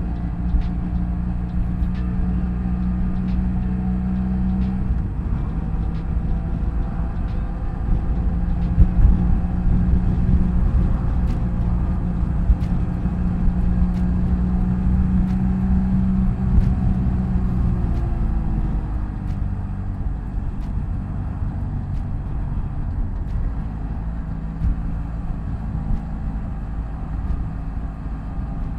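BMW F800GS motorcycle's parallel-twin engine running steadily under way on the road. The engine note breaks briefly about five seconds in, then falls in pitch about two-thirds of the way through and settles lower as the bike eases off.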